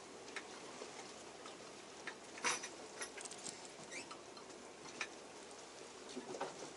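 Faint scattered clicks and light rustles over a steady hiss, the most distinct about two and a half seconds in, with a brief low sound near the end.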